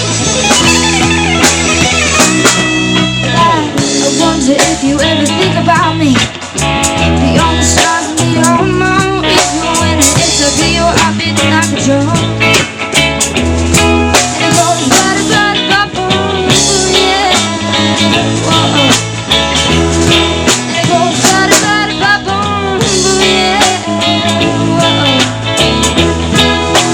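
Live rock band playing a blues-tinged passage: guitar lines over bass and drums.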